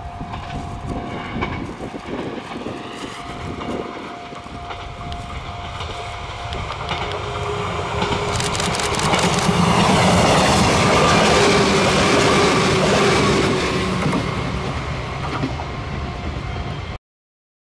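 Izuhakone Railway electric train approaching and passing close, building to its loudest near the middle with wheels clattering over rail joints, then easing off. The sound cuts off abruptly about a second before the end.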